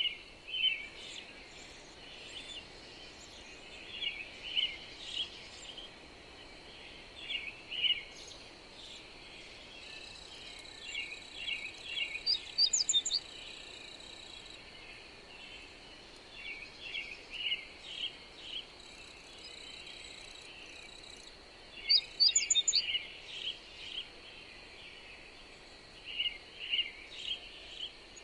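Songbirds chirping in short bursts of quick notes, coming every second or two, over a steady hiss of wind. A thin, steady high tone runs underneath.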